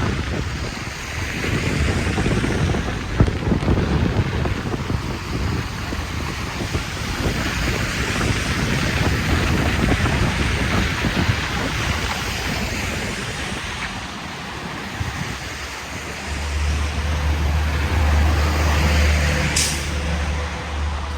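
Wind buffeting the microphone in a snowstorm, with a steady gusty rumble. About three-quarters of the way through, a vehicle engine's low hum joins, and a brief high-pitched sound comes near the end.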